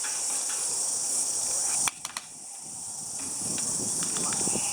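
Steady high-pitched drone of an insect chorus, with a few sharp clicks about two seconds in and some rustling near the end.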